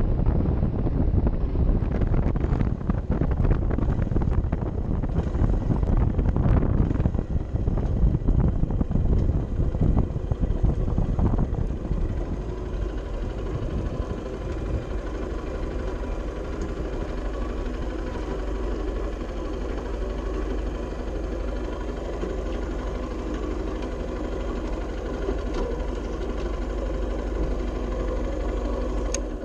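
Honda CB 125 F's single-cylinder engine running with wind rushing over the microphone. About halfway through it settles into a steady idle.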